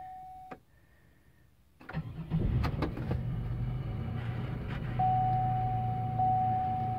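Supercharged 3.8-litre V6 of a 2004 Chevrolet Impala SS starting quickly about two seconds in and settling into a steady idle. A steady electronic chime tone sounds over the idle from about five seconds in.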